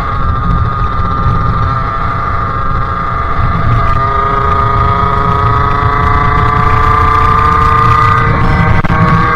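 Two-stroke 50cc Sherco engine with a KRM expansion-chamber exhaust running under way, its pitch climbing slowly as the bike accelerates through the second half.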